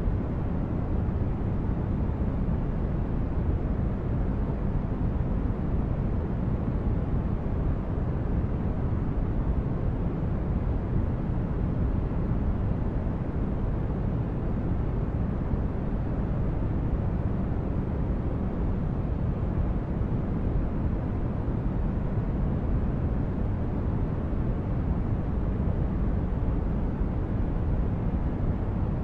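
Continuous sleep-aid noise track: a steady, deep rumbling hiss with most of its weight in the bass and little treble, unchanging with no pulses or breaks.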